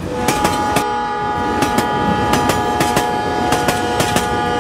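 Battery-powered toy train running on plastic track, its wheels clicking rhythmically over the rail joints. Over the clicking, a steady horn-like pitched tone starts just after the opening and holds for about four seconds.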